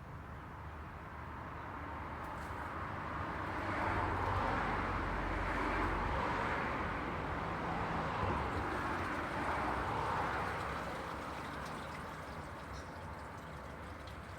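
Road traffic going by: the tyre and engine noise of passing vehicles swells about three seconds in, holds for several seconds, then fades again.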